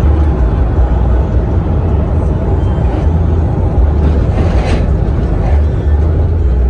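Motor vehicle noise: a heavy low rumble under a steady hiss of road noise.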